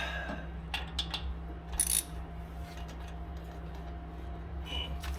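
A few scattered metallic clicks and knocks from a hand tool as it is set on a car's suspension fastener and worked to break it loose. The loudest click comes about two seconds in. A steady low hum runs underneath.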